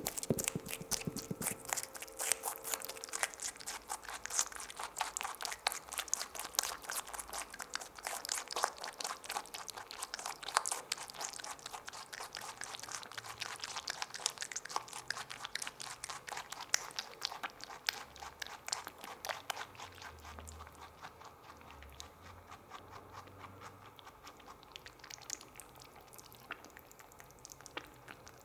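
Small rabbit chewing a grape: rapid, juicy chomping clicks that come thick and fast, then thin out over the last third.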